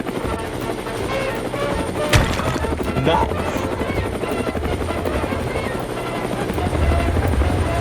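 Helicopter rotor blades chopping steadily as a helicopter flies in, with one sharp knock about two seconds in.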